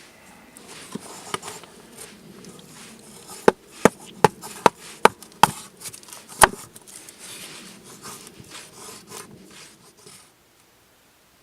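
Wood being struck: six sharp knocks in quick succession and a seventh a second later, with rustling handling before and after, as when chopping or splitting firewood.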